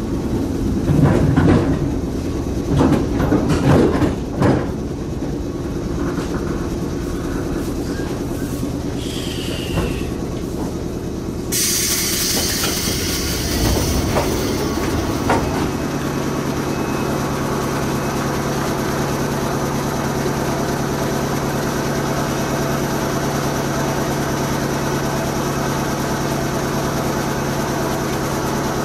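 JR West 105 series electric train pulling into a station: wheel clatter over rail joints in the first few seconds as it slows, then a brief falling squeal as it stops. About twelve seconds in there is a sudden rush of noise as the doors open, after which the stopped train hums steadily.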